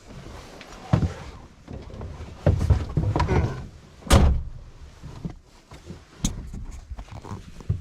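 A series of dull thumps and knocks, the loudest about four seconds in.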